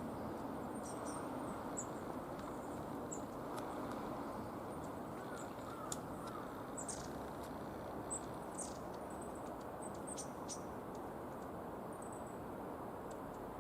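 Small wild birds of a mixed flock of long-tailed tits and Japanese tits calling: scattered short, very high, thin calls, some in quick pairs, over a steady low background hum.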